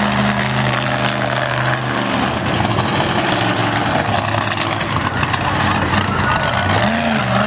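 A vehicle engine running at a steady idle, with a brief rev near the end.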